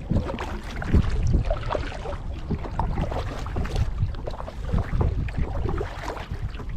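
Kayak being paddled: a paddle dipping and splashing in lake water in uneven strokes, with a low wind rumble on the microphone.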